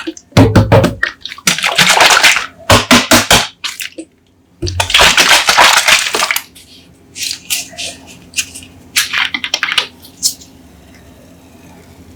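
Coca-Cola bottles being handled, opened and poured: repeated bursts of fizzing, sloshing soda and clicks. There is one longer fizzing burst of about a second and a half some five seconds in, and softer short bursts near the end.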